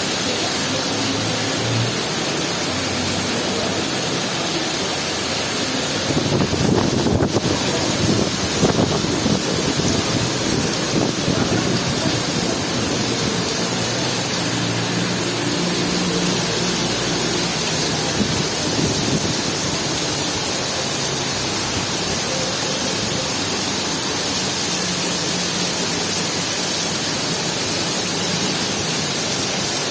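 Heavy rain pouring steadily, a dense even hiss, with a louder, rougher stretch about six to twelve seconds in.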